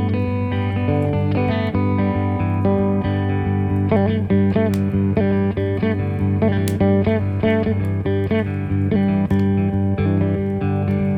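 Instrumental break of a slow desert-blues song: plucked guitar lines with bent notes, about four seconds in, over a steady low bass drone.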